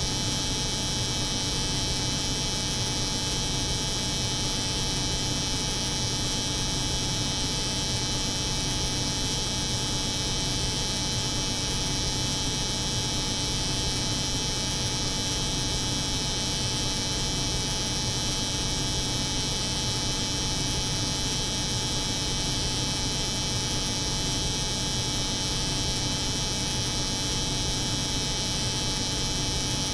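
Electric hair clipper running continuously, layered over the steady hum of a refrigerated cold room's cooling unit: an even, unchanging buzz and hum.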